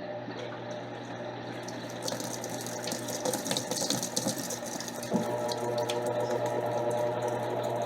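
Electrolux LTC10 washing machine running through its jeans programme, water rushing in the drum over a steady hum. About five seconds in, a whining tone joins.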